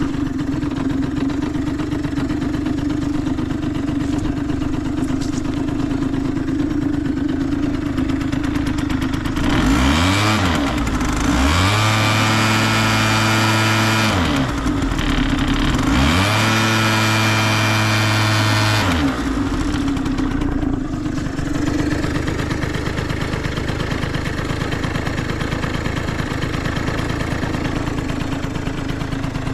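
Yamaha Jog 3KJ scooter's 50cc two-stroke engine catching and idling, then twice revved up, held for a few seconds and let back down to idle around the middle. The seller reports no abnormal noises.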